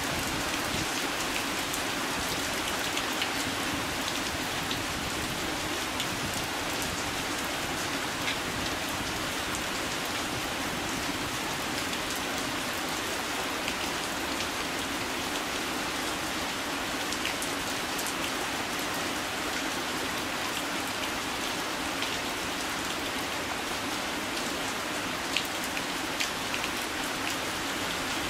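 Heavy, wind-driven rain falling steadily, with a few sharper drop strikes standing out, two of them near the end.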